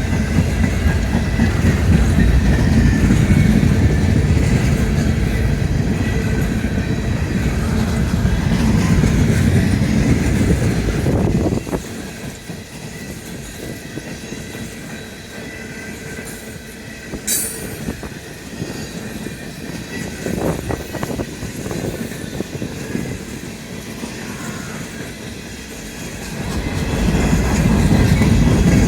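Empty coal train's cars rolling past: a steady rumble and clatter of steel wheels on the rails, with a faint wheel squeal. The sound drops off suddenly about twelve seconds in, with a single sharp click a few seconds later, and builds back up near the end.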